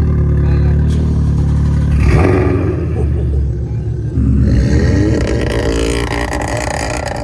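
A loud car engine running and revving hard, with its pitch climbing in the second half as it accelerates.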